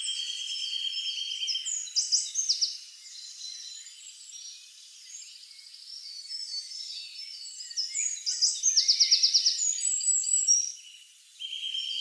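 Several songbirds singing and chirping: a steady trill near the start and again near the end, with quick runs of high falling notes about two seconds in and again in the second half.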